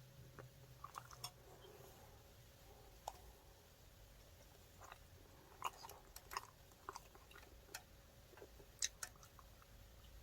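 Quiet chewing of a fried chicken burger: soft, scattered wet mouth clicks, a few sharper ones a little past halfway.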